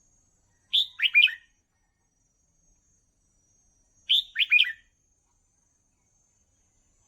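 Red-whiskered bulbul singing: two short phrases of a few quick, clear notes each, about three seconds apart.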